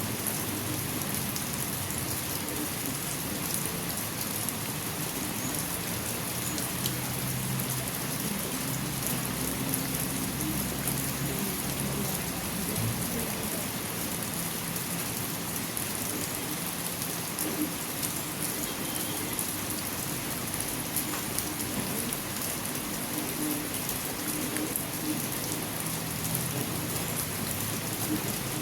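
Steady rain falling: a constant hiss with many separate drops ticking through it.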